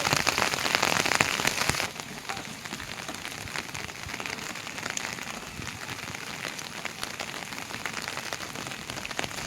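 Heavy rain falling, a dense hiss full of fine drop impacts. It drops suddenly in loudness about two seconds in, then goes on steadily and softer.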